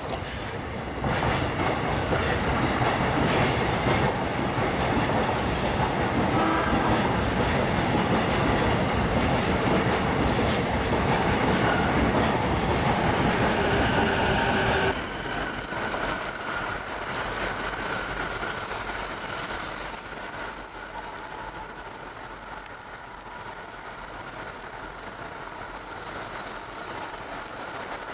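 Saikyo Line electric commuter train running at speed, a loud rumble with wheels clattering over the rails. About halfway through, the sound cuts off abruptly to a much quieter steady noise.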